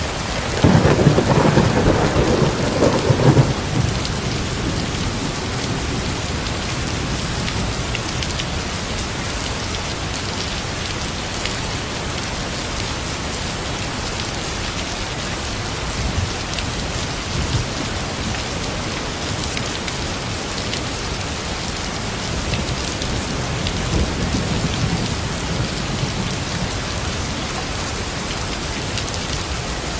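Steady heavy rain falling on a surface, with a loud rumble of thunder about a second in that lasts a few seconds, and a fainter rumble of thunder near the end.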